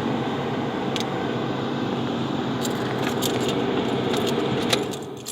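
Car engine idling steadily, heard from inside the car, with a few light key-jingling clicks over it. About five seconds in the running sound drops away, as when the engine is switched off.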